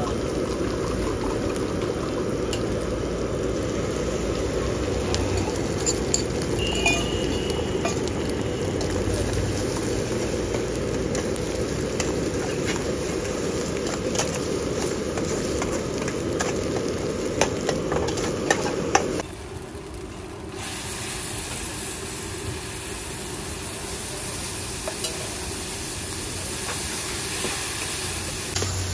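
Beaten egg with onions sizzling in a wok over a gas burner while a metal spatula scrapes and taps against the pan. About two-thirds of the way through, the sound changes abruptly and turns quieter, to a thinner, higher sizzle.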